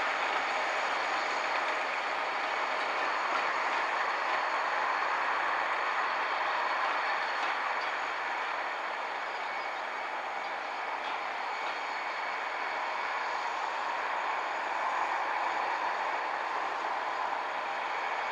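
Empty coaching stock train hauled by a Class 57 diesel running away over the rails: a steady rumble of wheels on track, with faint thin high tones held above it.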